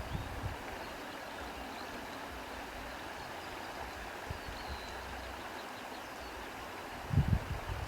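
Steady wind noise, with a brief low gusting rumble about seven seconds in and a faint short bird chirp near the middle.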